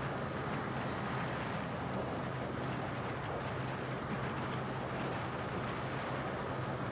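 Motorcycle running at a steady cruising speed with a constant low engine hum, under a steady rush of wind and road noise.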